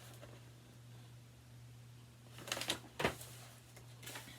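A book page being turned: a short paper rustle about two and a half seconds in, then a sharp tap, over a faint steady electrical hum.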